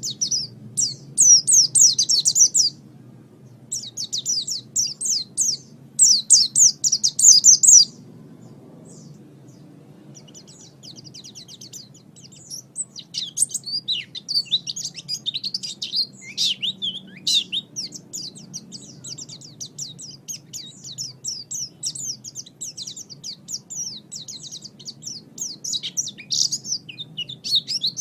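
Pleci (white-eye) singing a fast, high twittering song. It comes in loud bursts over the first several seconds, then runs on as a softer, unbroken rapid twitter, with louder phrases around the middle and near the end.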